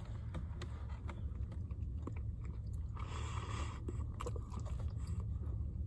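Someone biting and chewing a soft tortilla breakfast burrito: faint mouth and wrapper clicks, with a short hiss about three seconds in, over a low steady hum.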